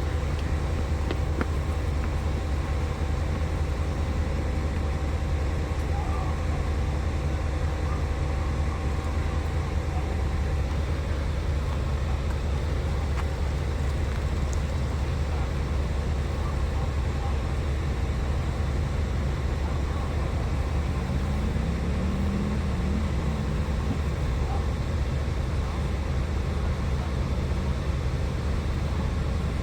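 Steady low drone of idling vehicle engines, with a brief wavering tone about two-thirds of the way through.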